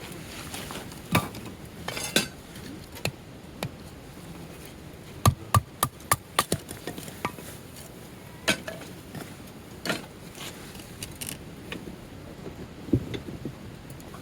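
Batoning: a baton knocking on the spine of a knife driven into firewood to split it. Scattered single sharp knocks, with a quick run of about seven around the middle.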